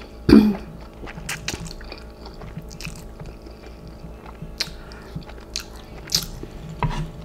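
A person chewing instant noodles close to the microphone, with many small, scattered wet mouth clicks and a louder mouth sound about half a second in.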